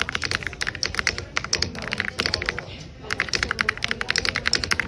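Fast typing on a mechanical keyboard: a rapid stream of key clicks, with a short pause about two and a half seconds in before the typing resumes.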